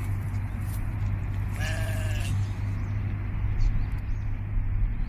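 A sheep bleats once, a high wavering call of under a second, about two seconds in, over a steady low rumble.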